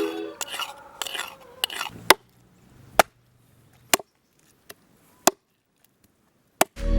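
A kitchen utensil stirring and scraping in a pan, then six sharp, separate clicks or taps about a second apart.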